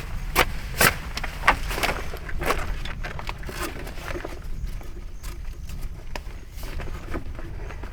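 Camping gear being handled: a run of sharp knocks and rustling over the first few seconds, then fewer, quieter clicks, over a steady low rumble.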